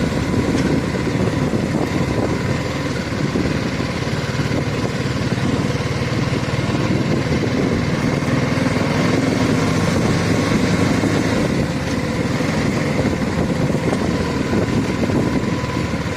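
BMW G310GS's single-cylinder engine running steadily at low revs.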